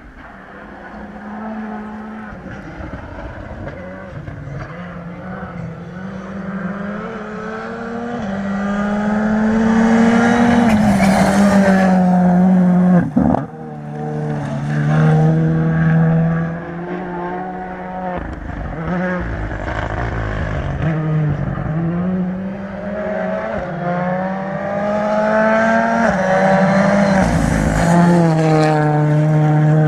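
Rally car running hard on a gravel special stage, its engine pitch climbing and dropping again and again through gear changes, getting louder as it comes closer. There is a sharp crack with a brief cut in the engine sound about thirteen seconds in, and the pitch climbs again near the end.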